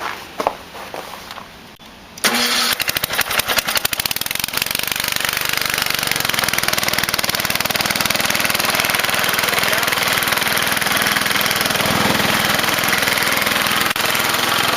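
Cub Cadet LT1050 lawn tractor engine cold-started in freezing weather: it fires about two seconds in, runs unevenly for a couple of seconds, then settles into a steady run.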